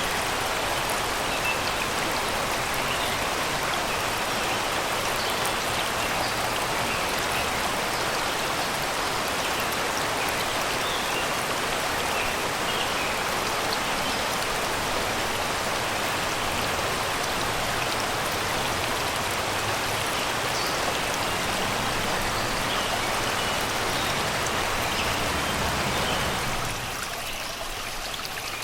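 Shallow river rushing and babbling steadily over rocks and stones, with small birds chirping faintly in the trees. The water drops somewhat in loudness near the end.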